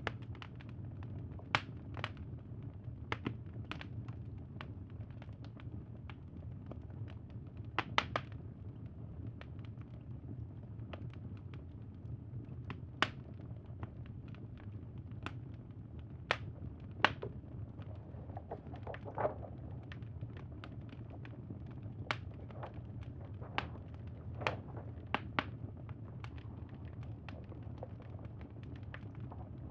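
Crackling campfire: irregular sharp pops and snaps over a steady low rumble.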